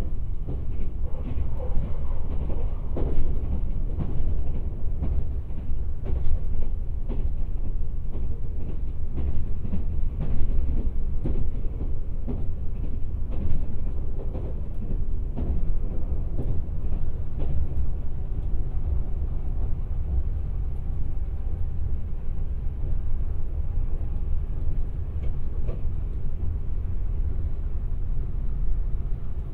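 Running noise inside the cabin of a Kintetsu 26000 series Sakura Liner electric train: a steady low rumble from the wheels and track, with scattered light clicks and knocks from the rails.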